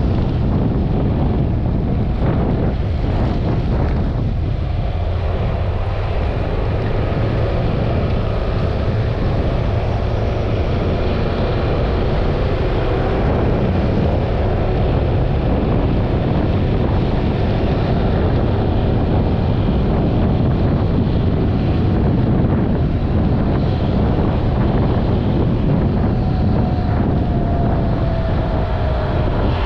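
Riding noise on a Yamaha XMAX 300 scooter: wind buffeting the microphone over a steady road rumble, with the faint tone of the single-cylinder engine and its CVT underneath. Near the end the engine tone drops in pitch as the scooter slows.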